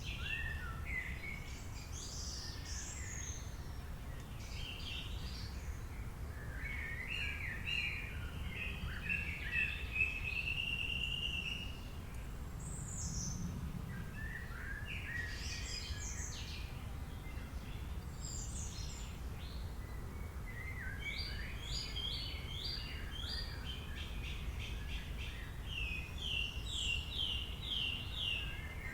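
Several birds calling and singing, with chirps and short warbled phrases, over a steady low background rumble. Near the end one bird gives a quick run of repeated notes.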